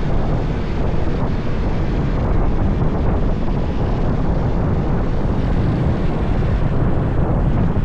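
Steady wind rushing over the microphone of a moving motorbike, with engine and road noise underneath.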